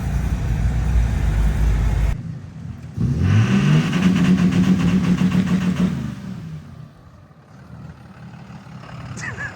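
A steady low rumble that cuts off about two seconds in. A second later a truck engine revs up quickly, holds at high revs for about three seconds, then falls away.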